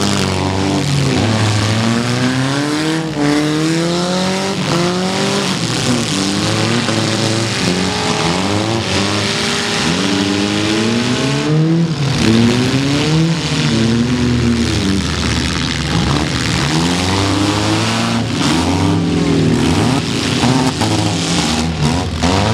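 Several demolition derby car engines revving up and down at once, their pitches rising and falling over each other, with a few sharp bangs of cars colliding.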